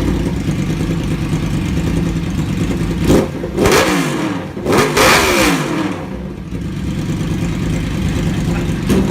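Honda CB 750 Seven Fifty's four-cylinder engine idling steadily, blipped sharply twice, a little past three seconds and again around five seconds, the revs falling back to idle after each.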